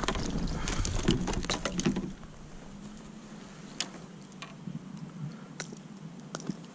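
Quick clicks, taps and knocks of fishing gear and a fish being handled in a kayak, thick for about two seconds and then only a few scattered clicks.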